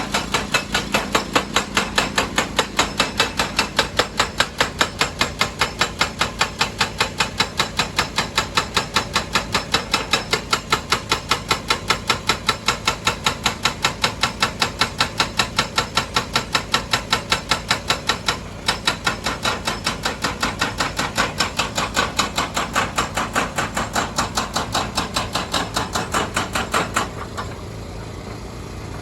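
Hydraulic rock breaker hammering on stone in a fast, steady rhythm of sharp blows, about three to four a second, stopping near the end.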